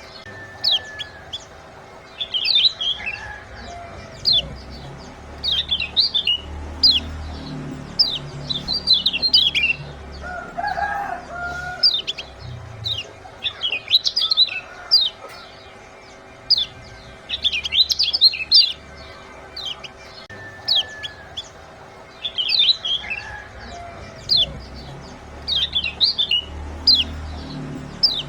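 Kecial kuning (yellow white-eye) giving rapid, high 'ciak' chirp phrases again and again, about one burst every second or so, the kind of recording played to stir caged birds into song. A lower call is heard briefly about ten seconds in.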